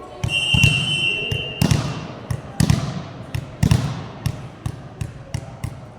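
A referee's whistle blows one steady blast of about a second and a half. Then comes a string of volleyball thuds, some loud with an echoing hall tail and others lighter, as the ball is bounced or struck.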